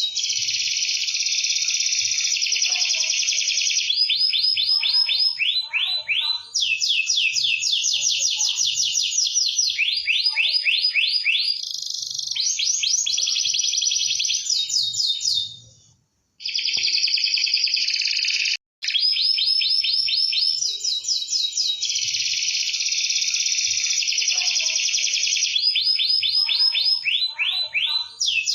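Domestic canary singing nonstop in long, fast trills and rolls. The song breaks off twice, briefly, a little past the middle.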